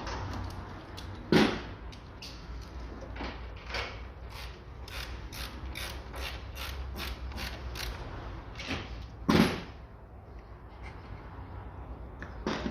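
Ratchet wrench clicking in short strokes, about three clicks a second, as the battery hold-down is tightened, with two louder metallic knocks about a second in and near the end.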